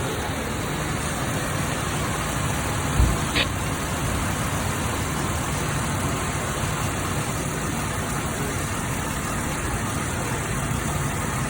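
Engine running steadily, with a single low thump about three seconds in and a sharp click just after.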